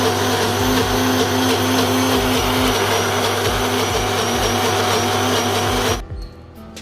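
Indian kitchen mixer grinder (mixie) running at a steady pitch, grinding a wet green chutney paste. The motor cuts off about six seconds in.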